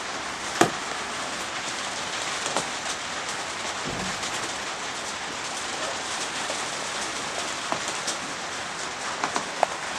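Steady rain falling, with a sharp knock about half a second in and a few light clicks near the end.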